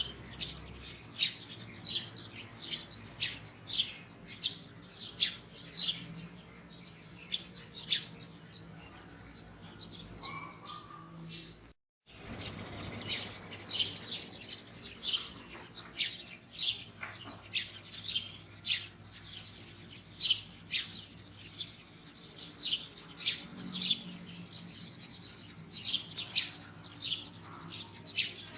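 Birds chirping: short, sharp high chirps repeating about once or twice a second, cut off by a brief silent break about twelve seconds in.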